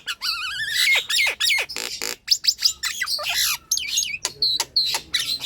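Nias hill myna in full song: a rapid, unbroken string of loud whistled glides, wavering trills and harsh squawks, with sharp clicks between them.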